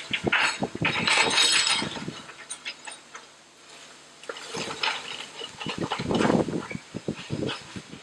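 Wood and glass crunching and clattering as a house is torn down, in two spells of crashing debris with a short lull in the middle.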